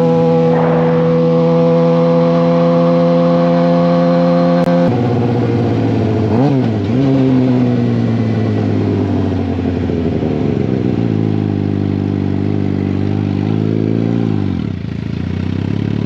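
Suzuki GSX-R750 inline-four running through an M4 slip-on exhaust. It holds a steady note, then the pitch drops suddenly about five seconds in. A quick rev blip follows, and the engine note then falls gradually as the bike slows.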